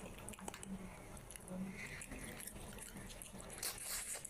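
Close-miked chewing and wet mouth sounds of a person eating rice and curry by hand, with scattered smacking clicks that are loudest near the end.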